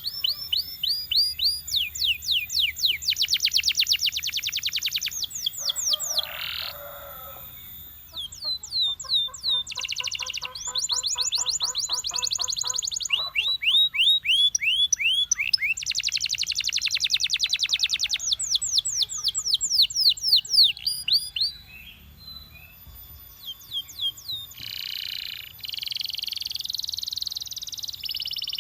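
Belgian canary singing: long rolling trills of fast repeated notes, each note sliding down in pitch, changing speed and pitch from phrase to phrase. There is a slower, lower rattle about ten seconds in and a brief quieter pause about two-thirds of the way through.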